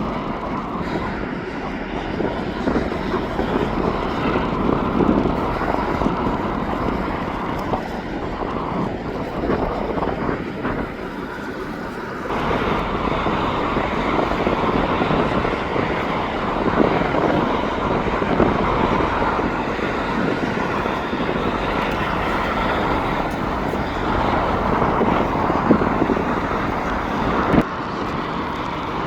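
Steady noise of jet airliner engines, with an abrupt jump in level about twelve seconds in.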